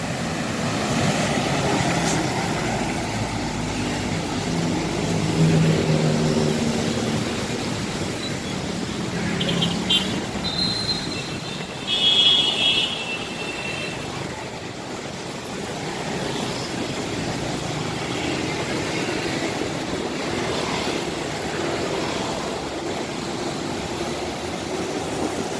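Bus diesel engine running as a bus pulls past, over steady traffic noise, with a brief high-pitched tone near the middle.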